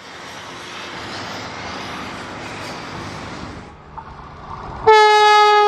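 Vande Bharat electric train rushing past with a steady roar, then after a brief lull its horn sounds: one long, loud blast about five seconds in, its pitch sagging slightly as it goes.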